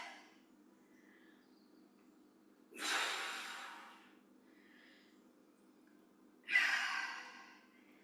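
A woman breathing out hard from exertion while lifting weights: two strong exhalations about four seconds apart, each starting sharply and fading over about a second.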